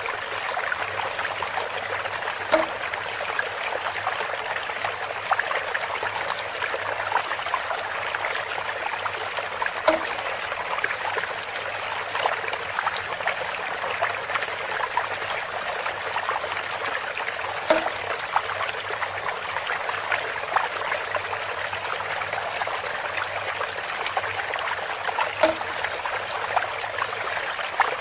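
Water trickling and splashing steadily from a bamboo spout, with a hollow knock four times, about every seven and a half seconds.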